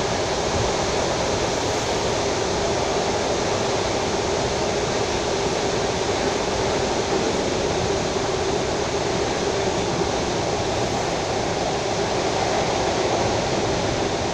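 Steady running noise of a suburban electric train at speed, heard from inside the carriage: an even rush with no rhythm of rail-joint clicks.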